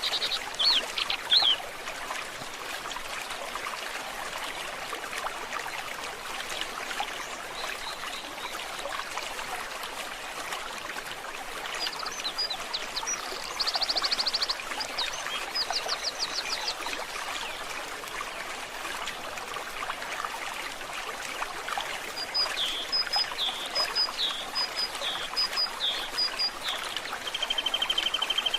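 Steady trickle and gurgle of a forest stream. High, rapid trills and short repeated chirps break in at the start, around the middle, and in a run near the end.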